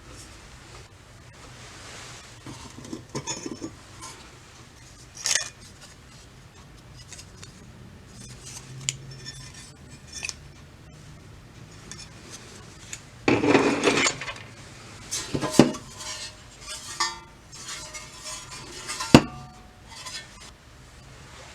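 Steel toy-truck parts clinking, rattling and knocking as they are handled on a hard surface. The sounds come irregularly, with a louder rattle about two-thirds of the way through and a few sharp single knocks.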